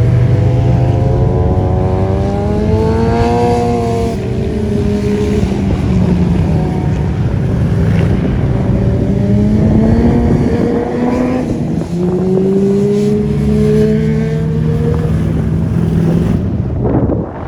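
A vehicle engine accelerating hard, its pitch climbing three times with a drop between each climb, like upshifts, before it falls away sharply near the end.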